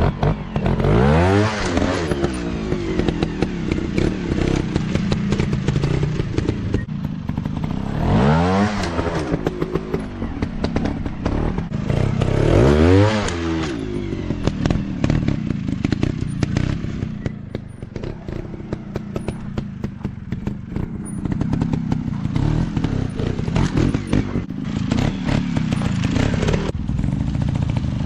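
Dirt bike engine revving hard in three quick up-and-down bursts, about a second in, around eight seconds and around thirteen seconds, running at lower revs in between, with clattering knocks from the bike working over rough ground.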